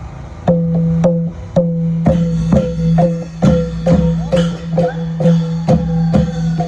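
Thai klong yao long-drum ensemble music: drum strokes about twice a second, each ringing at the same pitch, over a steady low drone, with plucked string notes above.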